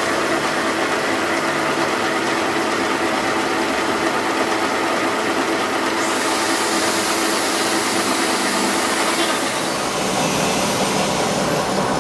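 A machine motor running steadily in a workshop, with a high hiss that comes in suddenly about halfway through.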